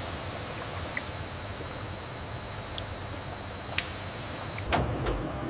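Steady machinery hum and hiss with a faint high whine, broken by a few light clicks and, near the end, some low knocks.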